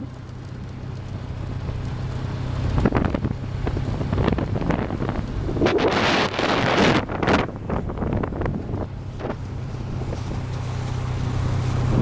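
Motorbike engine running steadily while riding, with wind buffeting the microphone in gusts, strongest a few seconds in and again around the middle.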